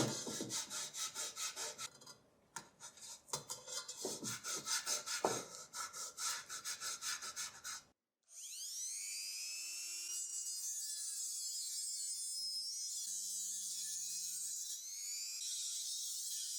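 Rhythmic hand rubbing or scraping strokes, about four a second, typical of hand abrasion during rust removal. About halfway through the strokes stop abruptly and a steady whirring sound with wavering pitch takes over.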